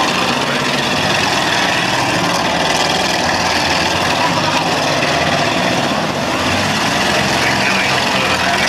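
Several demolition derby cars' engines running together, a loud, steady engine din with no single crash standing out.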